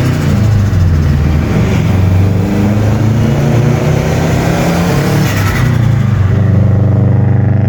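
Turbocharged car engine pulling under throttle, then lifting off with a chattering turbo flutter about five seconds in. It settles to a steadier, lower engine note near the end.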